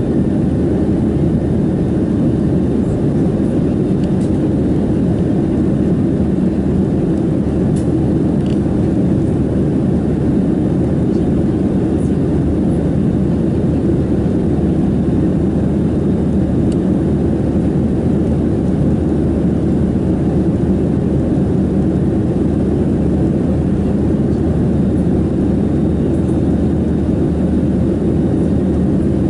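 Steady cabin noise of a Boeing 737-700 in flight: the drone of its CFM56-7B jet engines mixed with airflow over the fuselage, heard from a window seat.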